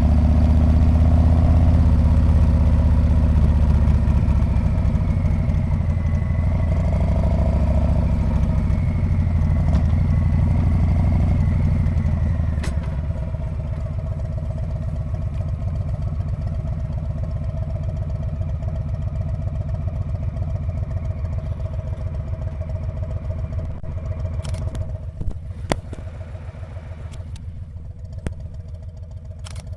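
Harley-Davidson Street Bob's V-twin engine heard from the rider's seat, running loud and low under throttle. About twelve seconds in the throttle closes and the engine drops to a quieter, even pulsing beat. A few sharp clicks come near the end.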